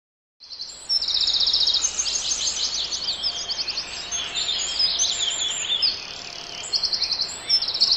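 Several songbirds singing and chirping at once, with fast trills among the calls, over a steady outdoor hiss; it starts abruptly about half a second in.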